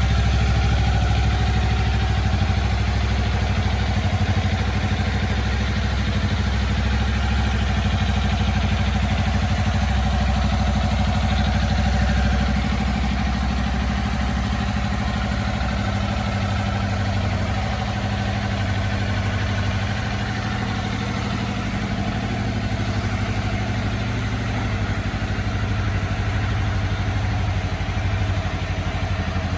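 Kawasaki Ninja 250's parallel-twin engine idling steadily. It gets a little quieter about twelve seconds in.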